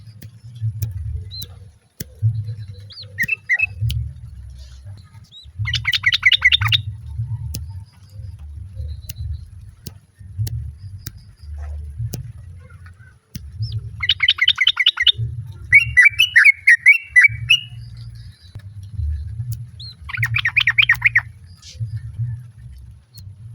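Female yellow-vented bulbul (trucukan) calling to draw a male: three short bursts of rapid bubbling chatter, about six, fourteen and twenty seconds in, with a short warbling phrase just after the second. A low, uneven rumble runs underneath.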